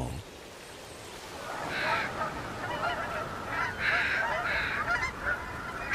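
A flock of waterfowl honking, many calls overlapping, starting about two seconds in after a quiet opening.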